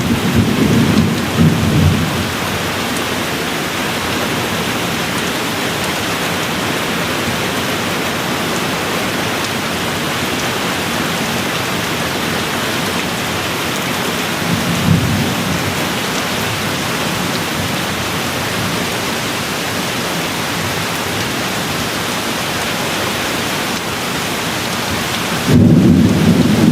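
Steady rain falling, with low rolls of thunder in the first two seconds, a brief one about halfway through, and a louder rumble setting in near the end.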